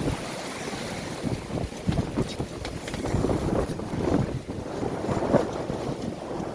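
Wind buffeting the microphone over water rushing and splashing along the hull of a sailing yacht moving fast under sail, in uneven gusts.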